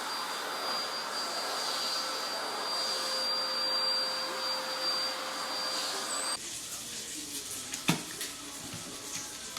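A steady rushing appliance motor with a thin high whine, cutting off abruptly about six seconds in. Quieter room sound follows, with a single sharp click near the end.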